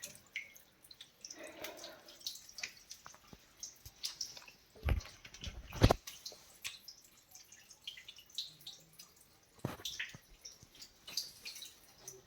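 Water dripping in irregular drops, with two louder knocks about five and six seconds in.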